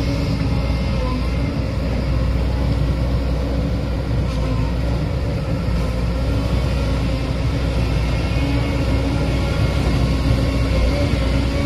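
John Deere amphibious excavator's diesel engine running steadily at a constant pitch, with a deep rumble.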